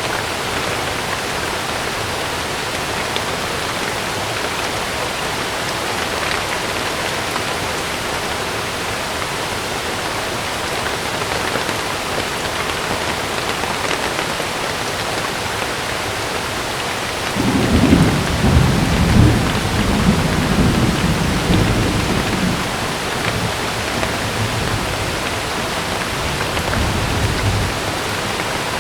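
Heavy rain drumming steadily on a tent. About two-thirds of the way through, a long roll of thunder rumbles in suddenly, loudest at first, then fades over about ten seconds.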